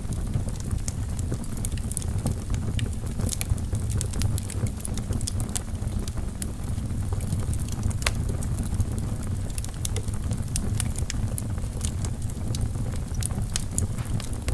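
Wood logs burning in a fireplace: a steady low rumble of the flames with frequent sharp crackles and pops of the burning wood.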